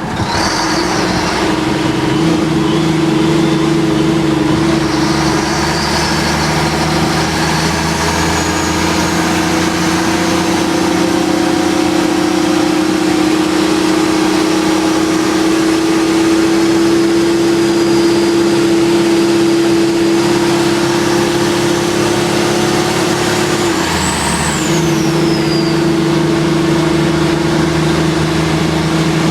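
Fire ladder truck's engine running under way, heard from the open cab as a steady drone over road and wind noise. The drone dips and changes pitch about five seconds before the end.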